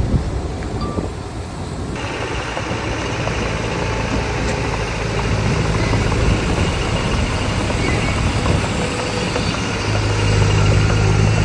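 Diesel engine of heavy earthmoving machinery running steadily, its low engine note growing louder about ten seconds in. A wider hiss joins it about two seconds in.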